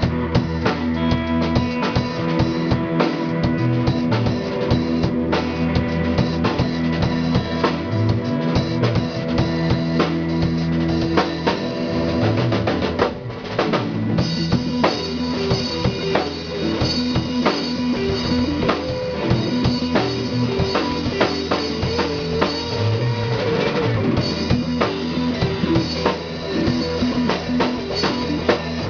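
A live band playing loudly through a PA system during a sound check: a drum kit with kick and snare hits drives over held bass notes and other instruments, with a short break about halfway through.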